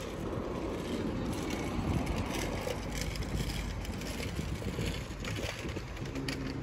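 Road traffic passing, with wind rumbling on the microphone. A steady engine hum comes in about six seconds in.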